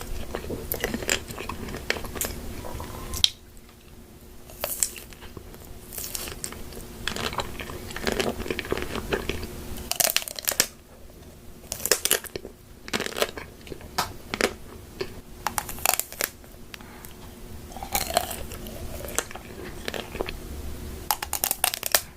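A person eating crunchy food close to the microphone: sharp crunching bites and chewing that come in clusters, with brief quieter pauses between them.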